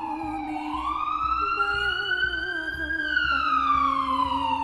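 Emergency-vehicle siren wailing: the pitch slides down, rises slowly for a couple of seconds, then falls again, over a low pulsing beat.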